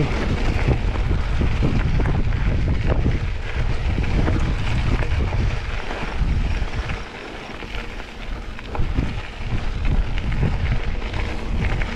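Wind buffeting the microphone over a mountain bike rolling down a dirt double track, with short rattles and clicks from the bike over bumps. The low wind rumble eases about halfway through.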